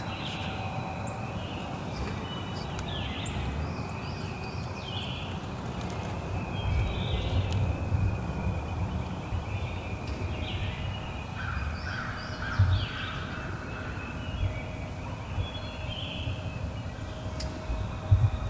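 Wild turkey calls with other birds calling around them, repeated short calls every second or two, and a few low thumps.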